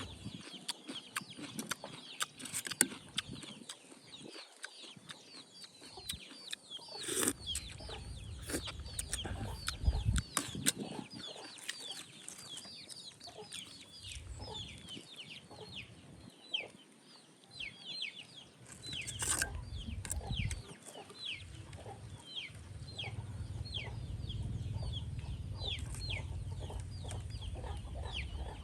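Birds chirping: many short, high, falling chirps, several a second, with scattered knocks and a low rumble in places.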